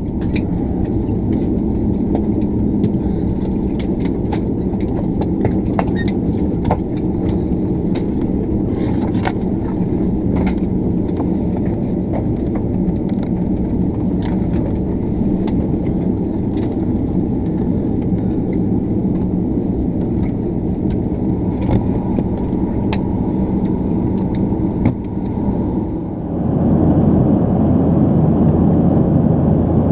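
Cabin noise inside a Bombardier Dash 8 Q400 turboprop on the ground after landing: a steady engine drone with a hum, dotted with scattered small clicks and rattles. About 26 seconds in, the drone abruptly turns louder and rougher.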